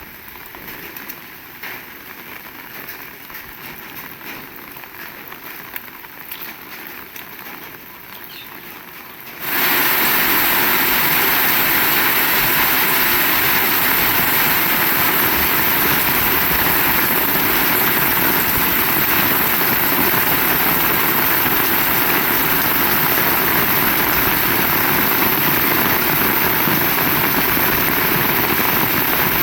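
Rain falling with scattered drips, then about a third of the way in it abruptly becomes much louder: heavy rain as a dense, steady hiss.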